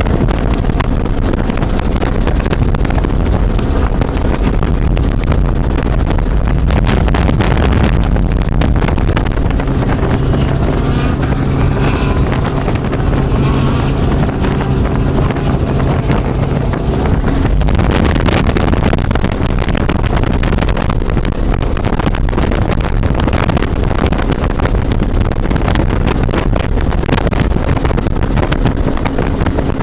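Helicopter in flight heard from inside the cabin: a loud, steady rotor and engine rumble with wind buffeting the microphone. A steady hum rises out of the noise for several seconds midway.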